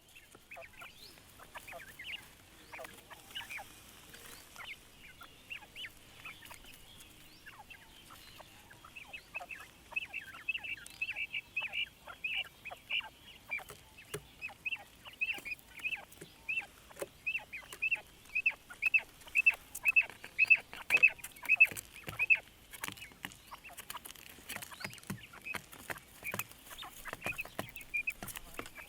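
Quail giving short, high peeping calls about twice a second, louder and steadier from about ten seconds in, then fading near the end, with scattered faint clicks and rustles.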